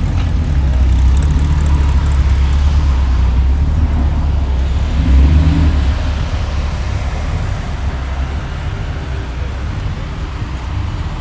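A car engine running close by, a low rumble that swells to its loudest about five seconds in and then fades.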